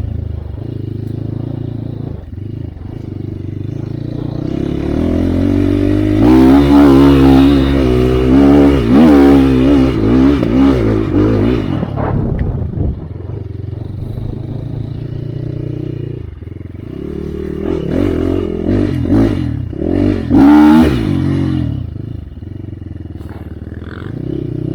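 Enduro dirt bike engine running under way and being revved hard, its pitch rising and falling in two loud stretches: about six to twelve seconds in, and again around eighteen to twenty-one seconds in.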